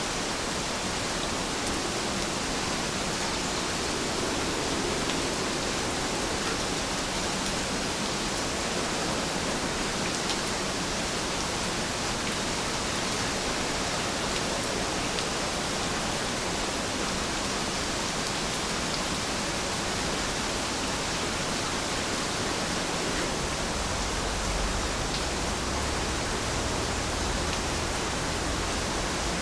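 Heavy rain falling steadily, an even hiss of countless drops. A low rumble joins in near the end.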